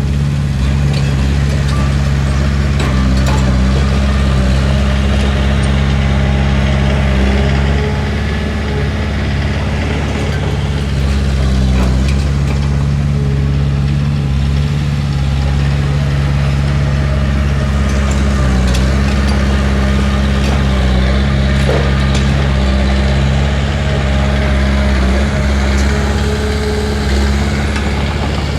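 Diesel engine of a Komatsu D31P crawler bulldozer running steadily at a constant speed, with a few light clanks over it.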